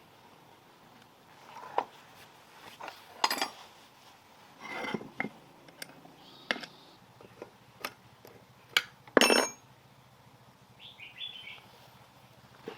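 Irregular clinks and knocks of metal tools and parts being handled, the loudest a ringing metallic clink about nine seconds in.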